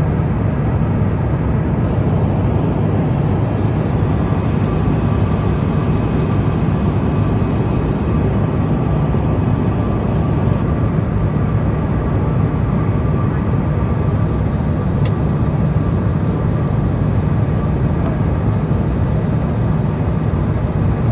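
Steady drone of an airplane's engines and airflow heard from inside the cabin, with a faint high tone held throughout.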